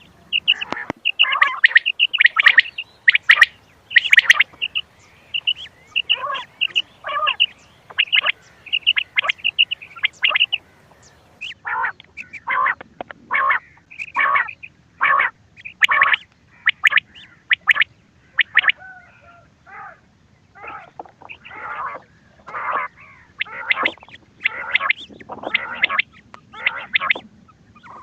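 Recorded quail calls of the kind played as a hunting lure: short, sharp call notes repeating in quick clusters, several birds overlapping, thinning briefly about two-thirds of the way through.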